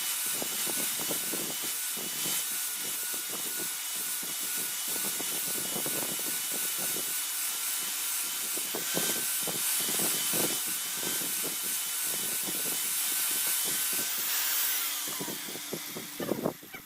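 Electric grinder grinding the spring-steel dao blade, a steady grinding hiss over a high whine, then switched off about fifteen seconds in, its whine falling as it winds down.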